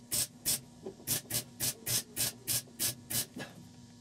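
Welder laying a rapid series of short stitch welds, about three crackling bursts a second, to fill rust pinholes in thin automotive sheet metal; the bursts stop near the end, leaving a low steady hum.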